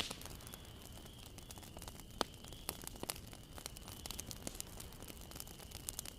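Wood fire crackling, with many irregular small snaps and a louder pop right at the start and another about two seconds in. A faint steady high tone runs underneath.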